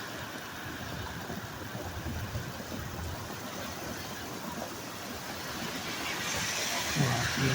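Steady rumble of a running vehicle. A hiss comes in near the end, and there is a single thump about seven seconds in.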